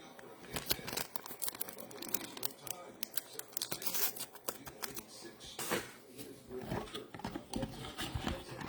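Trading-card pack wrappers being torn open and crinkled, with cards handled: an irregular run of crackles, rips and small clicks.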